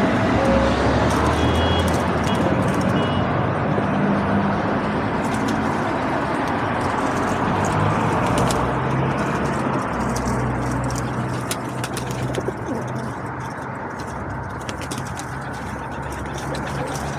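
Feral pigeons cooing in low, steady tones, with scattered light taps over a steady background rumble.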